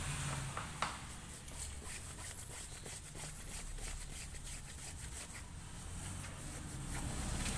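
Hand tool tightening the screws around a front-load washing machine's tub, with rapid scraping and clicking and one sharper click just under a second in.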